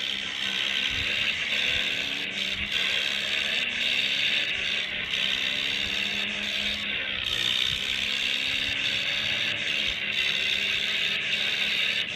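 A toy vehicle's geared mechanism running with a steady rattling whir, over a low steady hum.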